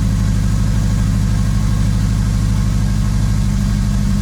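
Acura RSX's K-series four-cylinder engine idling steadily just after starting on newly fitted 750cc injectors. It is running super rich, which the owner hopes will clean up once all the air is out of the fuel system.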